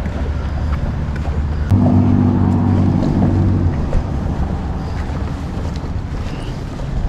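A steady low engine rumble, with a stronger engine hum rising up for about two seconds starting just under two seconds in.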